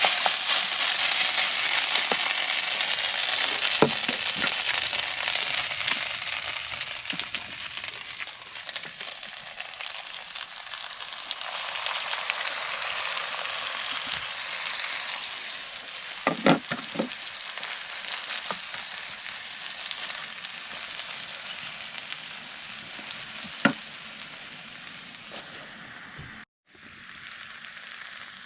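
Food sizzling steadily in a hot frying pan, easing off somewhat after several seconds, with a few sharp knocks against the pan. The sound cuts out briefly near the end.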